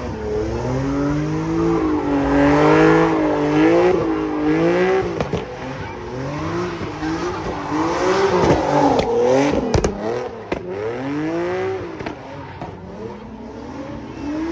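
Car engine revving up and down over and over, its pitch rising and falling about once a second, as a car spins at a car meet. A sharp click or pop comes about ten seconds in.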